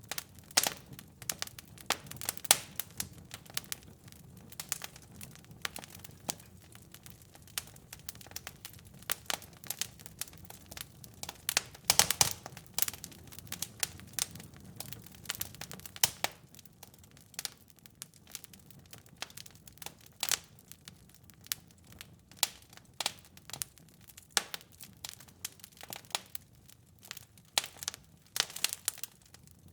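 Wood fire crackling in a fireplace: irregular sharp pops and snaps over a low rumble of flames. The rumble thins out about halfway through, leaving mostly sparser pops.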